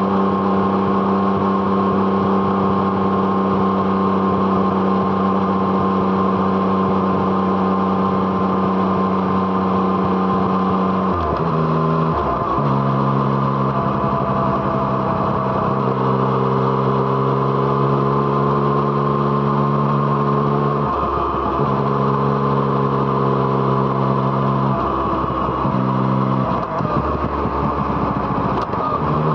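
Yamaha MT-09's three-cylinder engine through an Arrow Thunder aftermarket exhaust, pulling along under steady throttle. The engine note breaks briefly and resettles at a lower pitch about 11 seconds in, and breaks again about 21 seconds in and near the end.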